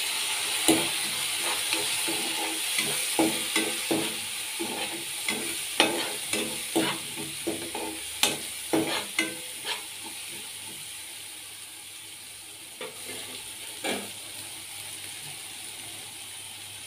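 Thick tomato-and-spice masala sizzling in a non-stick kadai while a slotted spatula stirs it, each stroke scraping and knocking on the pan, about one or two a second for the first ten seconds. After that the frying sizzle goes on more quietly, with two more knocks a few seconds later.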